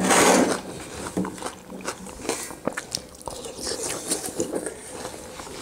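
People biting into and chewing pieces of raw watermelon, with crunching bites and smacks throughout and a loud burst right at the start.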